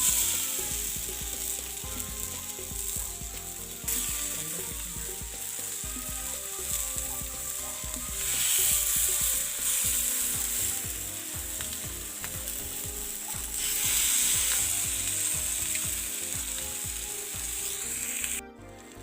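Masala-coated chicken legs sizzling and crackling in a little oil on a hot tawa. The sizzle swells louder twice, about eight and fourteen seconds in, and cuts off sharply just before the end.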